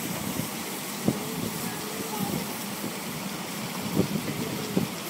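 Steady running noise of a miniature railway train heard from aboard, with a few short sharp knocks about a second in and near the end.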